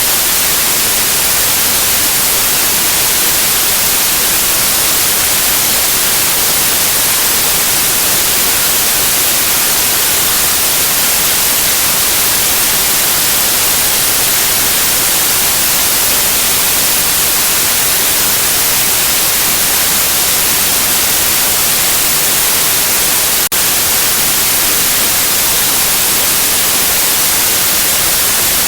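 Steady, loud white noise: an even, continuous hiss, brightest in the high frequencies. One brief glitch interrupts it about two-thirds of the way through.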